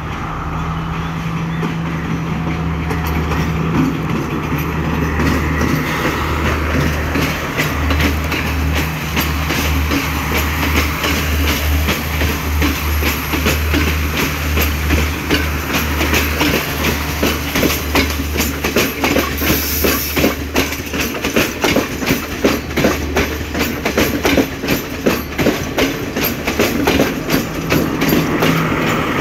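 Sri Lanka Railways Class S14A diesel multiple unit passing close by. The coaches' wheels clatter in a steady clickety-clack over the rail joints, and the diesel power car's engine hums at the start and again near the end as the rear power car goes by.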